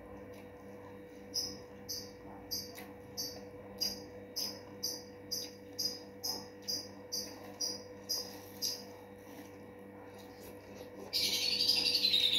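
Birds calling back and forth: a run of short, high chirps repeated about two or three times a second, then a louder, warbling song starting near the end.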